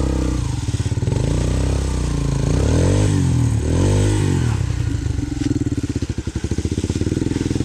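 Dirt bike engine running close by, revved up and down twice in quick succession a few seconds in, then dropping back to a lower, pulsing throttle.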